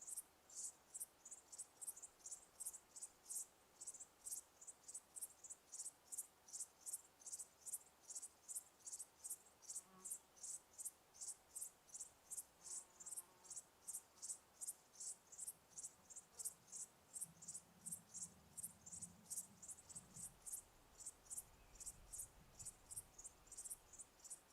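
Crickets chirping in a steady, even rhythm of high-pitched chirps, about two to three a second.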